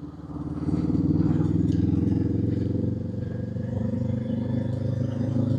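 Honda 500 parallel-twin motorcycle engine pulling, getting louder about half a second in, its pitch then climbing slowly as the bike accelerates.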